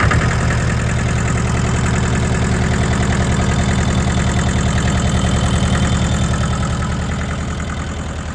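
Allis-Chalmers 5030 tractor's small diesel engine idling steadily with an even, rapid chug, freshly started after a loose battery cable was fixed.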